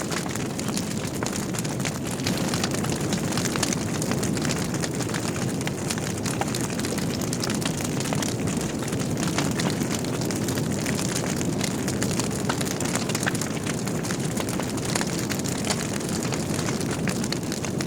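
Wood logs burning in a fireplace: a steady low rumble of the flames with frequent small crackles and pops scattered throughout.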